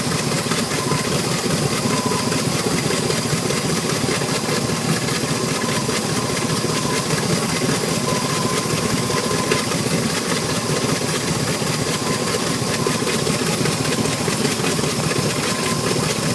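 Mastercraft X-25 ski boat's inboard engine idling steadily, an even running sound with a faint steady whine on top.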